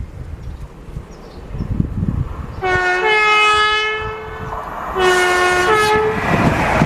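A Hitachi Azuma express train sounds its two-tone horn in two blasts, the first longer and stepping between its two notes, as it approaches at speed. The rush and rumble of the train passing through swell in near the end.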